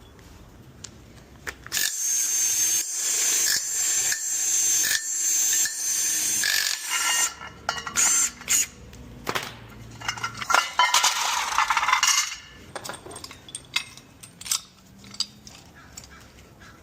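A handheld power tool run in repeated bursts of a few seconds, with a second longer run near the middle, while an engine is being stripped; short metallic clicks and clinks of tools and parts fall between the runs and after them.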